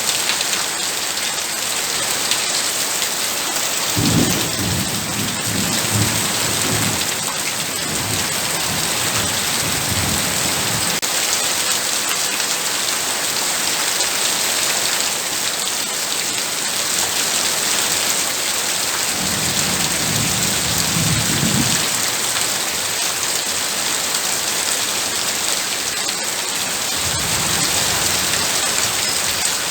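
Heavy rain falling in a steady dense hiss, with low rolls of thunder rumbling in about four seconds in, again around twenty seconds, and once more near the end.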